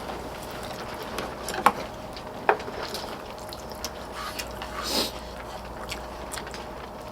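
Eating sounds: chewing, with a few sharp clicks of utensils against dishes, the loudest two close together near the start, and a short rustling smack about five seconds in.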